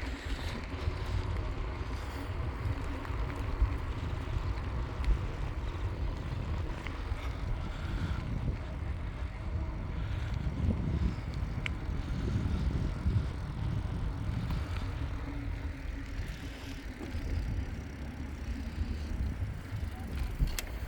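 Wind buffeting the microphone on a moving bicycle, a constant low rumble, with the hum of tyres on the road and a few short knocks from bumps.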